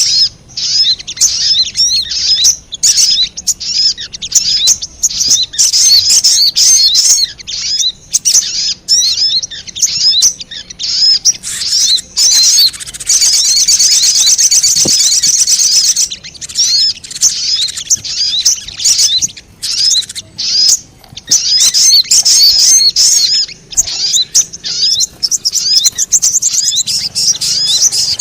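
Sogon bird lure-call recording: a fast, busy string of high-pitched chirps and rattling trills, coming in bursts with short pauses between them.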